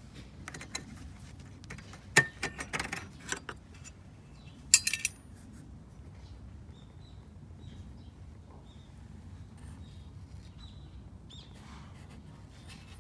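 Metallic clinking and rattling in two short clusters, the second sharper, then faint short high chirps over a low steady hum.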